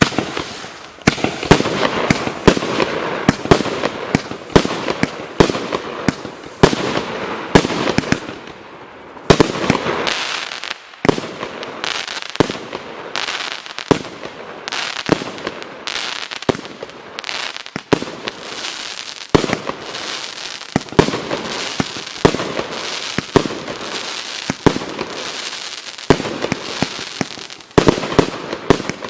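A 54-shot consumer firework cake firing: a rapid, continuous run of launches and aerial bursts, roughly two or three shots a second, with crackle between the reports.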